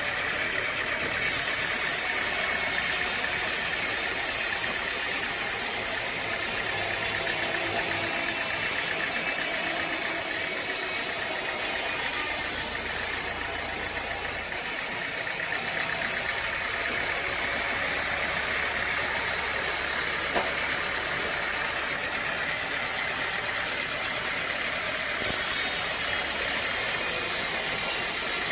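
Sawmill machinery running with a steady engine drone. A loud high hiss comes in about a second in, stops around halfway, and comes back near the end.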